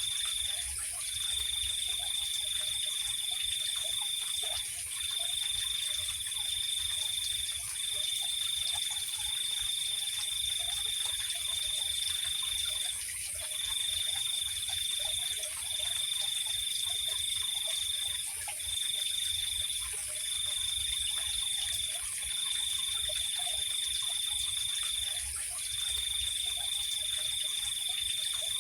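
Night insect chorus: a cricket-like trill at a steady high pitch, running in long stretches of a few seconds with brief gaps, over a fainter, higher continuous buzz, with scattered faint low calls underneath.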